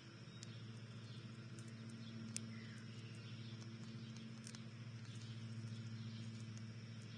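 Faint backyard ambience: a steady low hum, a few soft bird chirps and scattered sharp ticks.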